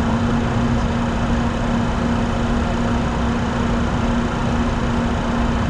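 Steady cockpit noise of a Bombardier Challenger 604 flying an approach: an even rush of airflow and engine noise with one steady low hum, unchanging throughout.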